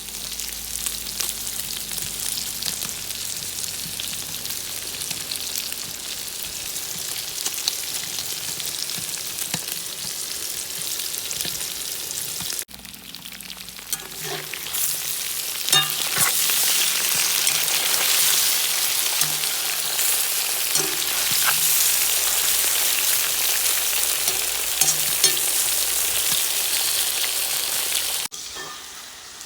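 Hot oil sizzling steadily in a kazan as food fries. The sizzle cuts off and resumes louder about halfway through, and again near the end.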